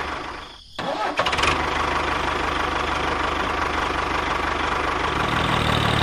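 Tractor engine sound: it dips out briefly, starts up again about a second in, then runs at a steady idle.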